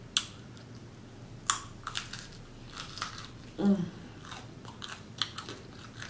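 Person biting and chewing a crunchy homemade crouton along with a mouthful of salad, with sharp, irregular crunches. A short hum of the voice comes about three and a half seconds in.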